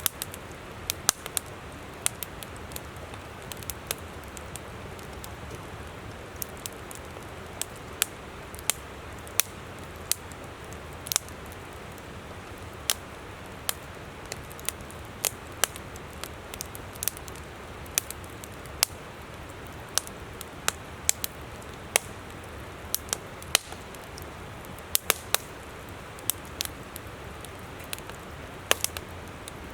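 Wood campfire crackling with irregular sharp pops, several a second and unevenly spaced, over the steady rush of a flowing river.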